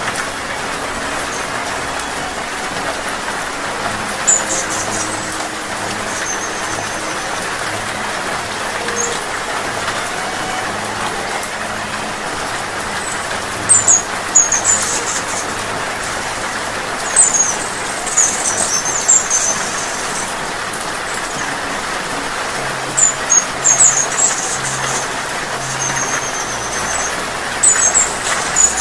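Steady rain hiss, with a hummingbird giving short runs of high, thin, squeaky chirps: once about four seconds in, then again and again from about halfway through.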